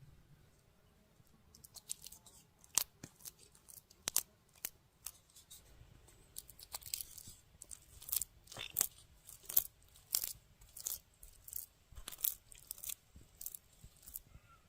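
A run of sharp, crisp snips and snaps at an irregular pace of about one or two a second, starting about two seconds in and stopping shortly before the end.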